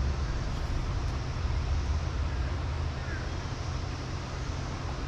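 Steady rush of a running stream with a low wind rumble on the microphone; a faint bird chirp is heard about three seconds in.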